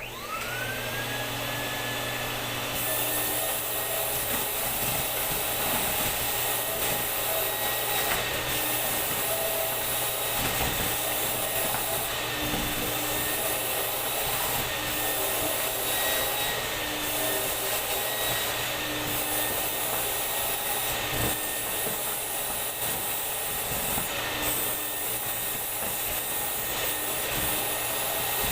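Vacuum cleaner switched on: its motor whine rises as it spins up over the first second or two, then runs steadily under a constant rush of air.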